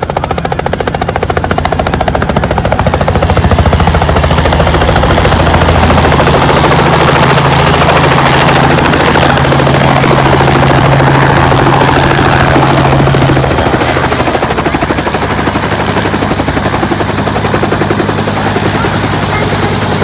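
Helicopter running loudly: fast, even rotor-blade chop over a steady low engine hum. It swells over the first few seconds and eases slightly about two-thirds of the way through.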